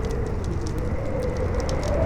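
Howling wind, a whistling tone that wavers up and down over a low rumble, with the scattered pops and crackles of a burning wood campfire.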